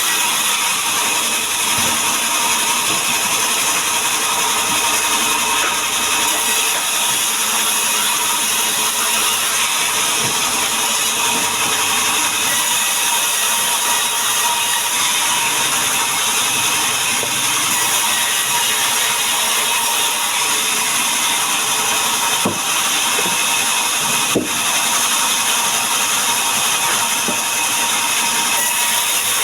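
Power saw cutting wood boards, a loud steady machine noise with a thin whine running under it, broken by two short knocks about three-quarters of the way through.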